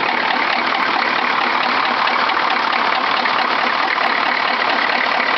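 6.5 L turbo diesel engine in a 1967 Chevy truck idling steadily shortly after a cold start in freezing weather, without the block heater plugged in.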